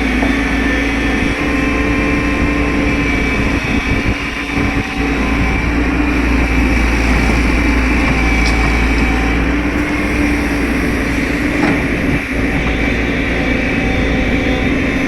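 Excavator's diesel engine running steadily, with a steady high whine over the engine's rumble.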